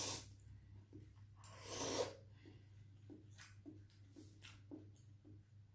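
Close-up eating and mouth sounds: a loud breathy burst about two seconds in, like a sharp breath or slurp, then a run of short, soft chewing sounds, two or three a second.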